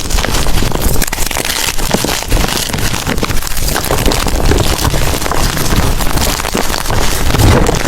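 Blocks of gym chalk being crushed and crumbled by hand close to the microphone: a loud, dense run of dry crunching and crackling.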